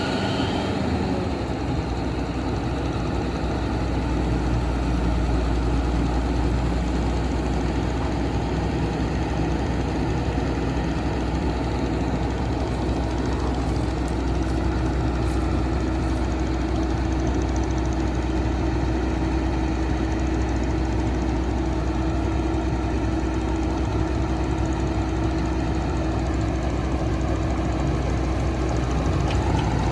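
Heavy diesel engine of the excavator or truck running steadily at low speed. A steady tone joins about twelve seconds in and fades out near the end.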